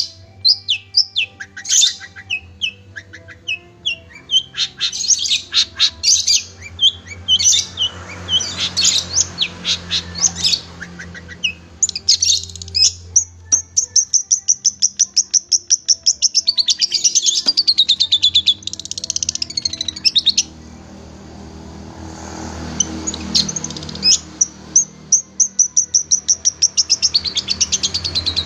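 Long-tailed shrike (cendet) singing a fast, varied song of high chirps and rapid trills. The song breaks off briefly a little past two-thirds through and then resumes, over a faint steady low hum.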